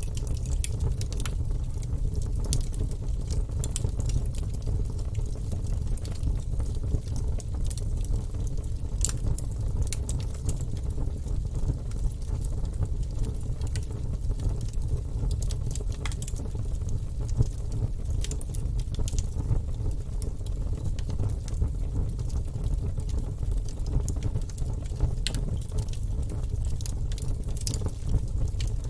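Wood fire burning in a fireplace: a steady low rumble of the flames with frequent irregular sharp crackles and pops from the logs.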